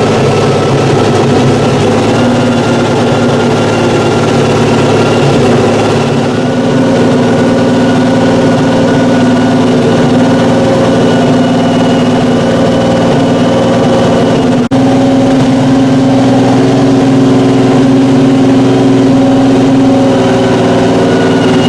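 Historic racing car engine running at a loud, steady idle with little change in pitch, and a brief break about fifteen seconds in.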